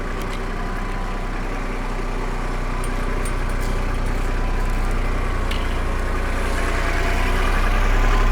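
Kubota tractor's diesel engine running steadily as it moves with a bucket load of mulch, growing gradually louder.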